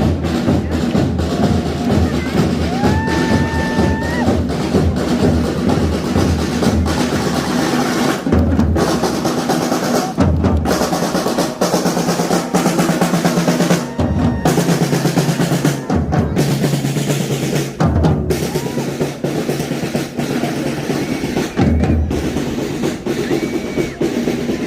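Drums playing, with snare drum rolls over steady bass drum beats.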